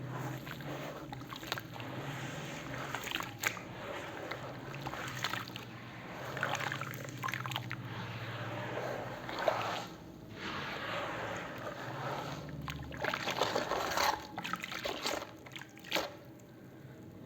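Wet cement paste being stirred and poured, sloshing and dribbling with many small crackly squelches and a few louder surges.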